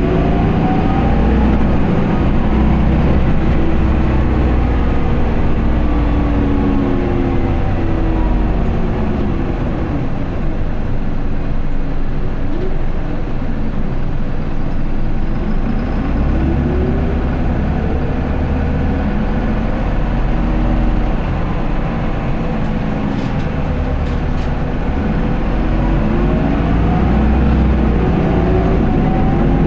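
Onboard running sound of an Isuzu Erga QDG-LV290N1 city bus, its four-cylinder turbo diesel engine rising in pitch as the bus pulls away. The pitch falls as it eases off about midway, then climbs twice more, with low drivetrain and road rumble throughout.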